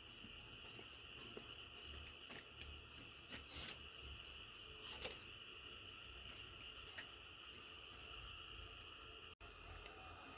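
Faint, steady high chirring of insects, with two brief sharp noises about three and a half and five seconds in.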